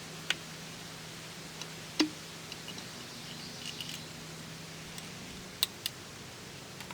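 A few sharp clicks and light knocks from handling the chainsaw's small parts and fuel line on the bench, the loudest about two seconds in and two close together near the end. A steady low hum runs underneath.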